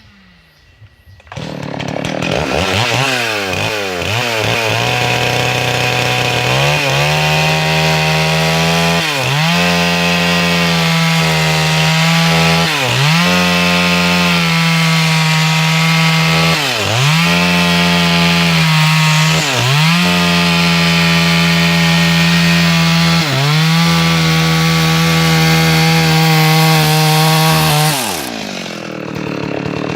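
Two-stroke chainsaw revving up about a second in and running at full throttle as it rips lengthwise through a log to saw boards. Its pitch dips briefly every few seconds. Near the end it falls back toward idle, then revs up again.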